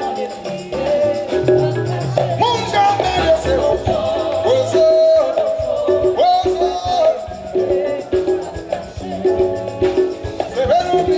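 Live band music: a lead singer's voice over a steady beat of drums, bass and shaken percussion.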